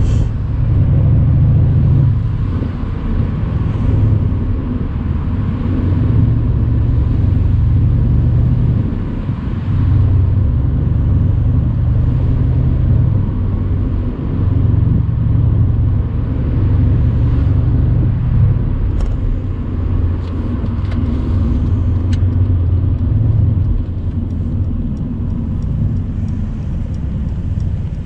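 Mercedes-AMG C63's twin-turbo V8 running under way on the open road, its deep engine note swelling and easing off every few seconds.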